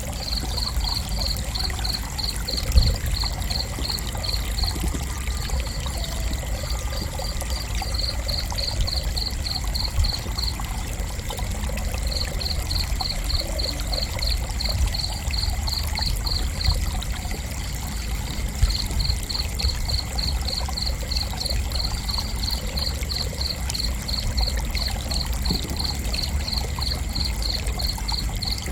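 Cricket chirping in an even pulse of about three chirps a second, breaking off briefly twice, over a steady high continuous tone and a low rumbling hiss.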